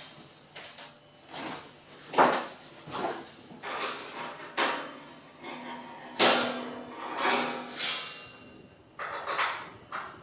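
Phillips screwdriver and small screws clinking and knocking against the espresso machine's metal top cover plates as the cover screws are taken out: a dozen or so irregular clicks and rattles, some with a short metallic ring.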